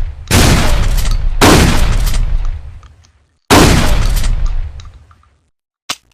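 Trench shotgun firing three loud shots, each with a long echoing tail, the second about a second after the first and the third about two seconds later. A short click near the end.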